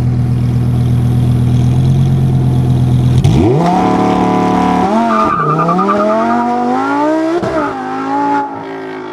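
Lamborghini Huracan Tecnica's V10 engine running low and steady, then pulling hard about three seconds in, its pitch climbing with breaks at the gear changes, before easing off to a steadier, falling note near the end.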